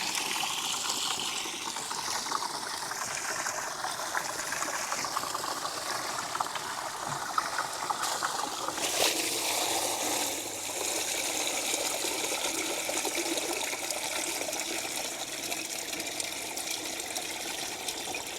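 Spring water trickling steadily into a camp shower bag as it is filled, the sound of the flow changing about halfway through.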